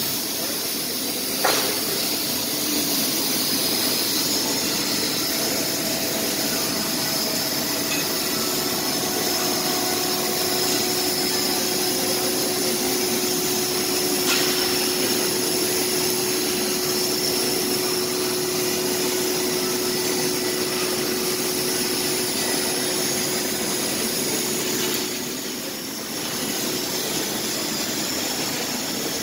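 Laser cutting machine cutting a fireplace door, with a steady hiss and hum. There is a sharp click about a second and a half in and another near the middle. A steady tone joins about eight seconds in and stops a few seconds before the end, where the noise briefly dips.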